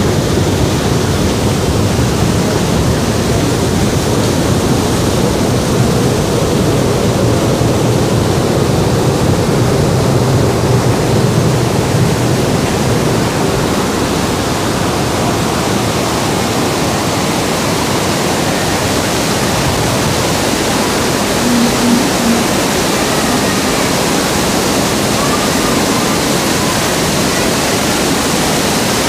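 Heavy tropical rain pouring down in a loud, steady rush.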